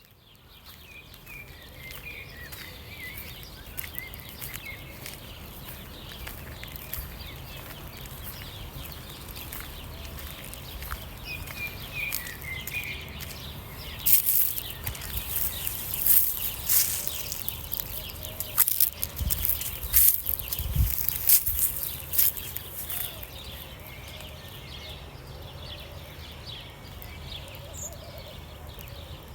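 Outdoor mountain ambience with birds chirping now and then over a low steady rumble. Through the middle stretch comes a run of loud sharp crackles and knocks, the loudest sounds here.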